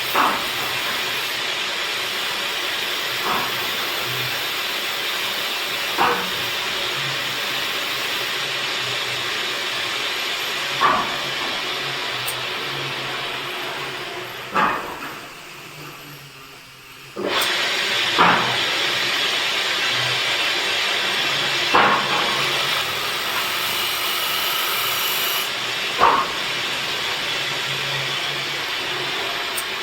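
A woodworking machine running with a steady hiss, with a sharp knock every three to four seconds. The noise dies away briefly in the middle, then comes back abruptly.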